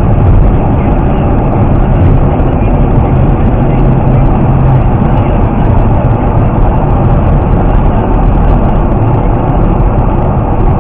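Loud, steady road and engine rumble from a moving vehicle, with no distinct impacts.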